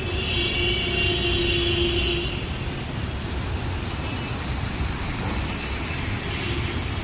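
Steady rush of flowing water with a deep low rumble. A faint held tone sounds over it for about the first two seconds.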